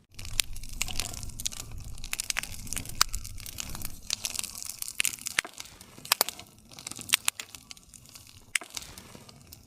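Wood campfire crackling: frequent sharp snaps and pops of burning wood, a few louder than the rest, over a soft low rumble.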